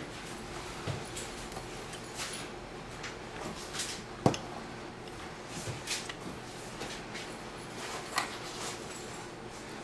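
Light handling noises: scattered soft clicks and knocks over a steady background hiss, with one sharp click about four seconds in.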